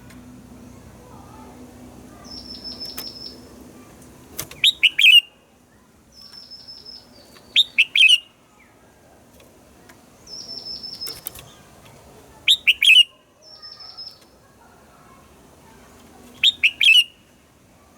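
Red-whiskered bulbul singing: a short, loud phrase of a few quick whistled notes about every four seconds, with softer, higher trilled notes in between.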